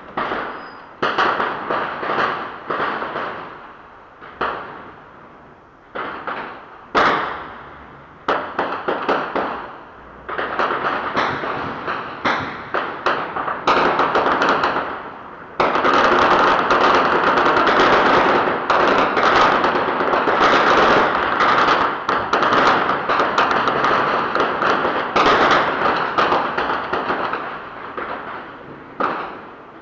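Heavy gunfire in a firefight: single shots and bursts of automatic fire, each trailing off in echo. From about halfway through it becomes a sustained, unbroken barrage for several seconds, then thins back to separate shots and bursts.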